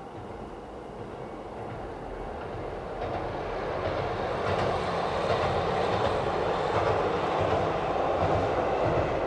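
KiHa 40 diesel railcar running on the line, its engine and wheels growing louder over the first half and then holding steady, with irregular low rail-joint thuds underneath.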